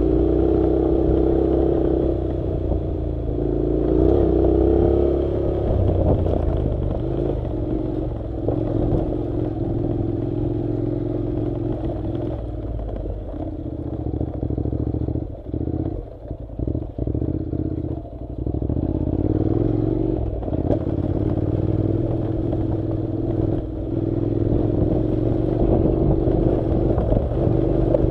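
Honda NC700's parallel-twin engine running as the motorcycle rides a dirt road, its pitch shifting with the throttle, with clatter from the rough surface. About halfway through the engine drops back several times in quick succession before pulling steadily again.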